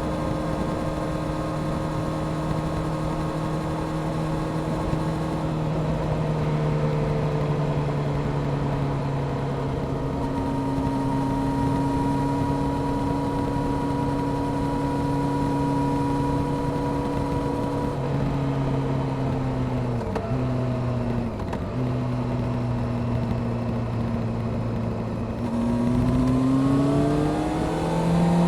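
Honda CBR600F Sport inline-four engine with a Delkevic exhaust, running at steady revs under way over a haze of wind and road noise. The note eases down a little twice in the first ten seconds and dips briefly twice a little past two-thirds of the way through. Near the end the revs climb steeply as the bike accelerates.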